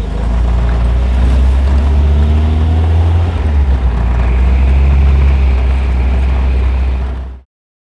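1971 MGB Roadster's 1.8-litre four-cylinder engine running as the car drives, a loud, steady low rumble that cuts off suddenly about seven seconds in.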